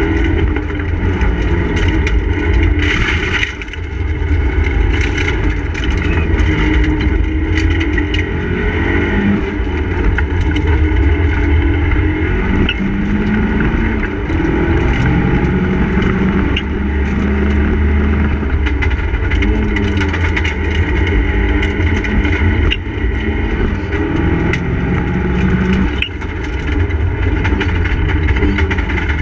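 Mitsubishi Lancer Evolution IV's turbocharged four-cylinder engine heard from inside the stripped, roll-caged cabin, revving hard and rising and falling in pitch as it pulls through the gears. The engine note drops briefly about three and a half seconds in and again near the end, where the driver lifts off.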